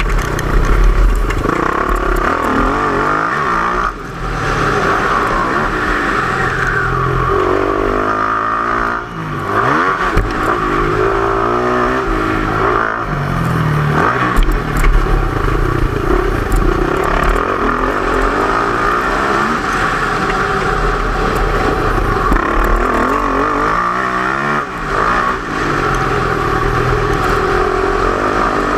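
Yamaha YZ450F motocross bike's single-cylinder four-stroke engine being ridden hard round a dirt track, its revs climbing and falling continuously as the throttle opens and shuts, with a few brief drops in level where the throttle is rolled off.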